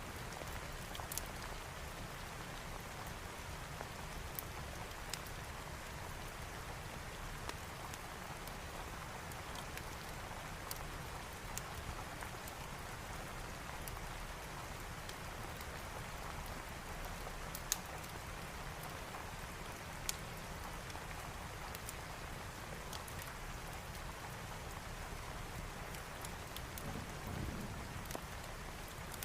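Steady heavy rain, with a low rumble underneath and scattered sharp crackling pops from a fireplace, one louder pop a little past halfway.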